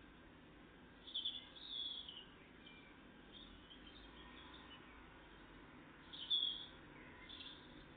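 Small songbirds calling: short high chirps in two clusters, about a second in and again about six seconds in, the second the loudest, with a few fainter calls between.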